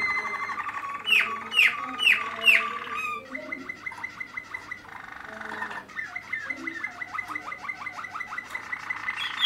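Malinois (Waterslager) canary singing: four loud falling notes about a second in, then a long run of fast, even trills and rolls.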